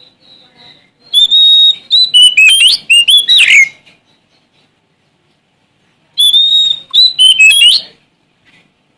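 Oriental magpie-robin (Sumatran kacer) singing in two loud bursts, about a second in and again past the six-second mark. Each burst is a quick run of whistled notes, slides and sharp high chips, with near quiet between them.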